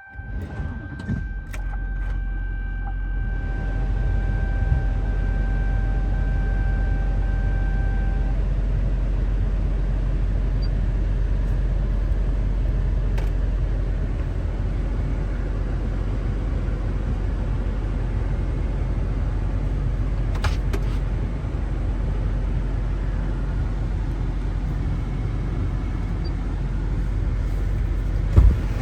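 6.6L Duramax V8 turbo diesel engine starting and settling into a steady idle. A steady high tone sounds over the first several seconds.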